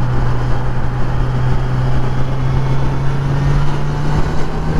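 Kawasaki Z900's inline-four engine running at a steady pace while riding, over a constant rush of wind and road noise. The engine note rises a little about three and a half seconds in.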